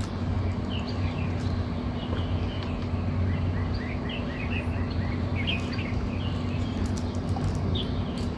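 Small birds chirping in short high notes, with a run of quick falling chirps in the middle, over a steady low hum.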